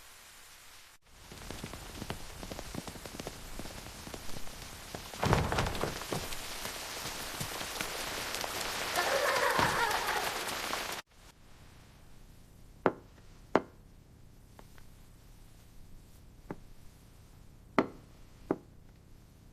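Heavy rain pouring in a dense steady hiss, with one deep thud about five seconds in. The downpour cuts off suddenly a little past halfway, leaving a quiet background with a few sharp, isolated drips.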